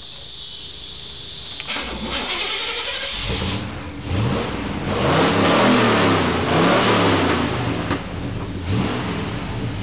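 A 1968 Camaro's 327 small-block V8 is started about two seconds in. It catches and is revved up and down a few times, then settles back toward idle near the end.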